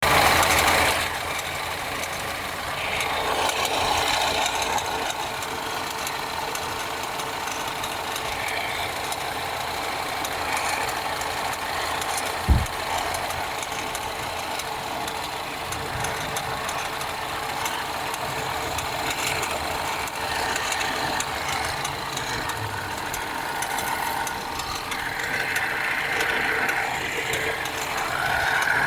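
BMW 316i F30 engine idling after a cold start with a repeated ticking, the sign of a failing accessory (radiator/AC fan) belt tensioner. A single thump about twelve seconds in.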